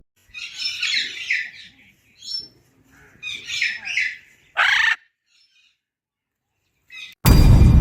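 Bird squawks and chirps in two short bouts, then one louder call that drops in pitch just past the middle. Near the end comes a loud, noisy burst lasting about half a second.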